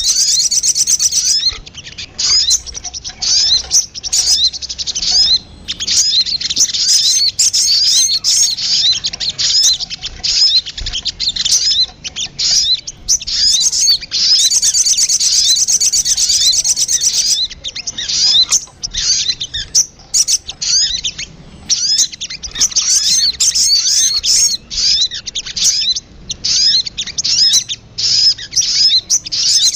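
Sogon (sogok ontong) bird calling: high, rapid chirps, in long fast runs that alternate with broken strings of sharp chips.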